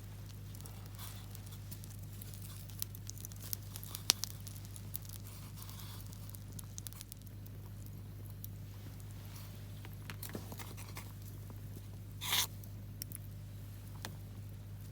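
Wood campfire crackling, with scattered small sharp pops and one louder brief crackle about twelve seconds in, over a steady low hum.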